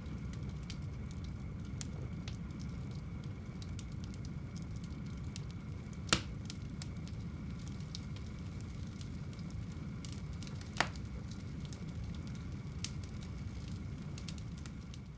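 Wood fire burning in a home fireplace: a steady low rumble of flames with scattered small crackles and two sharp pops, one about six seconds in and one near eleven seconds.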